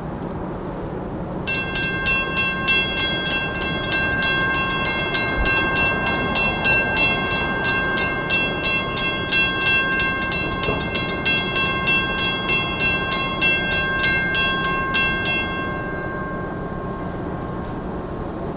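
Level crossing warning bell ringing in rapid, evenly repeated strikes, starting about a second and a half in and stopping shortly before the end, over the low, steady rumble of a train at the crossing.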